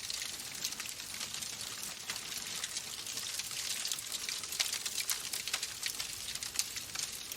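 Wood fire in a fireplace crackling: a steady hiss with many small, sharp pops and snaps scattered throughout.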